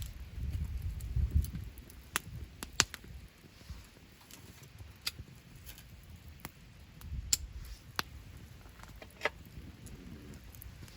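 Wood campfire crackling, with scattered sharp pops from the burning wood, about seven of them, over a faint hiss. A low rumble rises about half a second in and again around seven seconds.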